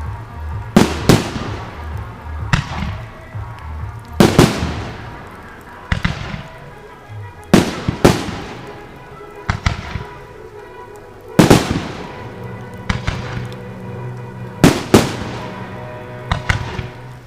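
Fireworks going off overhead: about a dozen sharp bangs, several in quick pairs, each followed by a fading crackle.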